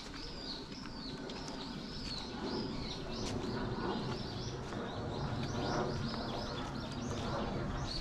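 Small songbirds chirping, a quick run of short, high, repeated notes, over low background noise.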